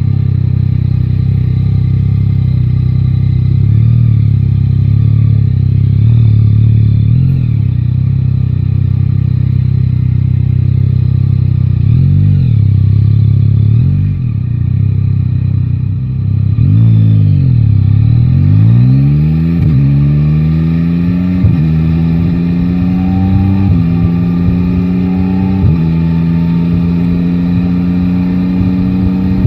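Yamaha Tracer 9 GT's three-cylinder engine running at a steady pitch, then dropping low and pulling away, its note rising in several sweeps that drop back at each upshift.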